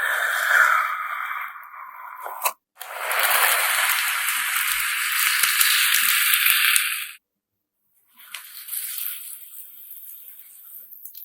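Slime mixed with coloured sand being squeezed and kneaded by hand, a grainy crunching, crackling sound. It stops abruptly twice and drops out entirely for about a second around seven seconds in, then comes back quieter.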